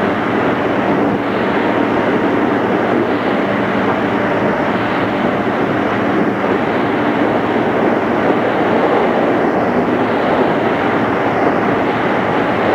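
Steady running noise inside a JR East 211 series electric train, the wheels rumbling on the rails while the train travels at a constant pace.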